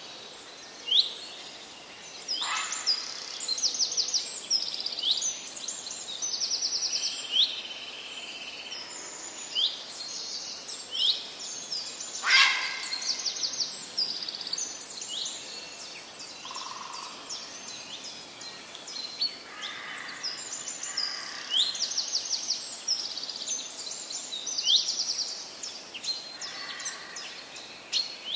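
Birds chirping and trilling: many short rising chirps and quick trills, with one louder sharp sound about twelve seconds in.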